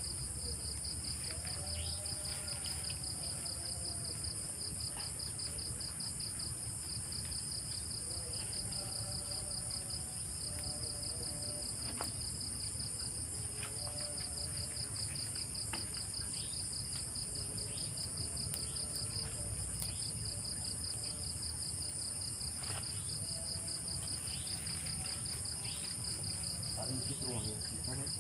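A steady chorus of insects trilling: a continuous high, very rapidly pulsing buzz with a second, higher whine above it, unchanging throughout.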